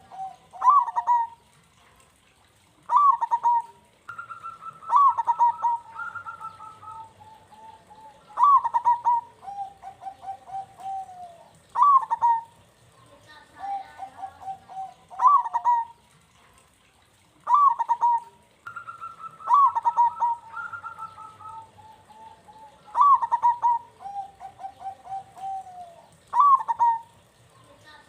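Zebra dove (perkutut) cooing: phrase after phrase of quick stuttering coos, each phrase a few seconds long with short pauses between. A strong local perkutut song, of the kind used as a lure to set other perkutut singing.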